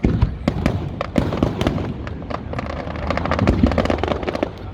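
Fireworks display: a rapid, irregular crackle of many small bursts over a low rumble, with a loud bang at the start.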